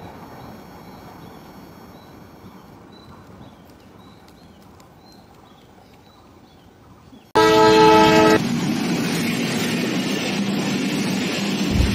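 Faint, quiet sound at first, then a Bangladesh Railway broad-gauge passenger train's locomotive horn sounds one loud blast of about a second, several tones at once. The steady rush and rumble of the train's coaches passing close by follows it.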